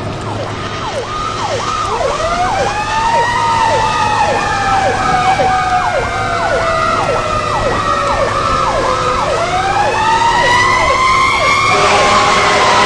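Two emergency vehicle sirens sounding together: one cycling fast in quick falling sweeps, about two a second, the other a slow wail that rises, falls and rises again. Near the end a steady horn blast joins in.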